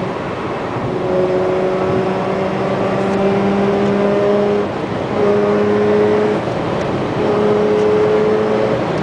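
Car engine pulling under hard acceleration, a droning tone that climbs slowly in pitch. It breaks off twice, about halfway through and again a couple of seconds later, with a short drop in loudness as the gearbox shifts up.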